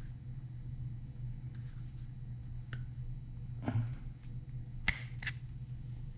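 A few sharp clicks and taps of small metal chainsaw engine parts being worked into place by hand, the loudest about five seconds in, over a steady low hum.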